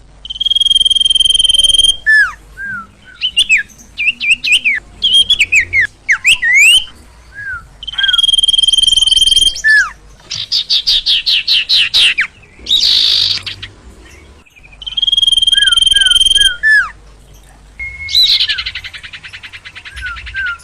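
Agitated, full song of a sirtu (sirpo) songbird. Long level whistles about two seconds each come three times, and between them are quick upward-sweeping chirps, short falling notes, a fast rapid trill about halfway through, a harsh burst just after it and a buzzy rattle near the end.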